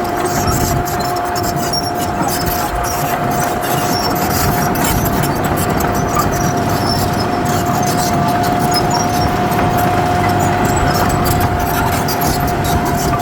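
Heavy earthmoving machinery running: a low engine rumble with a steady high whine that holds one pitch.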